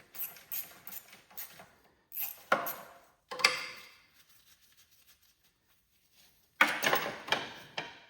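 Metal clinks and knocks from a wrench and fittings as a valve is unhooked on a garden tractor. Short scattered clinks, a quiet spell in the middle, then a busier run of clatter near the end.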